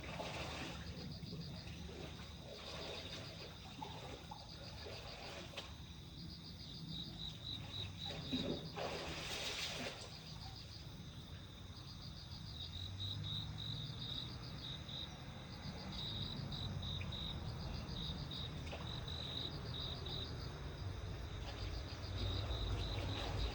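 A small songbird singing repeated rapid, high-pitched chirping trills, each a quick run of notes, over a steady low outdoor hum. About a third of the way in, a short rush of noise swells up and fades.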